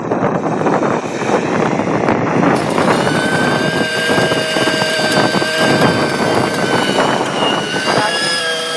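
Wind buffeting the microphone, with the two-stroke nitro engine of a T-Rex 600 Nitro RC helicopter coming through from about three seconds in as a steady high whine. Its pitch shifts near the end.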